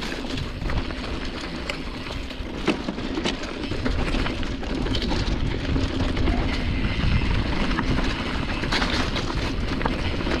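Specialized Stumpjumper mountain bike ridden fast down a dirt trail: steady rushing wind and tyre noise, with frequent sharp knocks and rattles as the bike goes over bumps.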